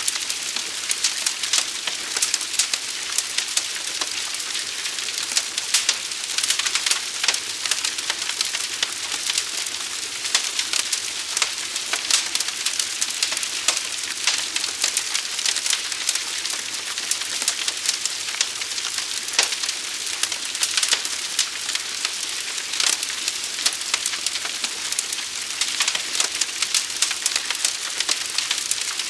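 A large wildfire burning, with a steady hiss and dense, irregular crackling and popping throughout.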